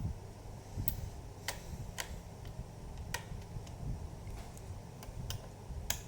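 Irregular small sharp clicks and ticks, about six in six seconds, over low handling rumble: a screwdriver and hands working the screws and plastic casing of an HP Pavilion G4 laptop during disassembly.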